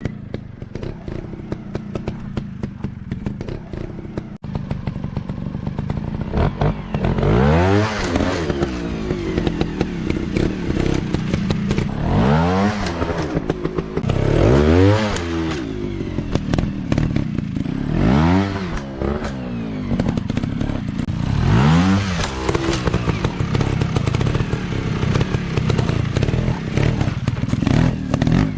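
Dirt bike engines running, at first steadily, then revved up and down repeatedly, about six times from roughly a quarter of the way in, with clattering and knocking throughout.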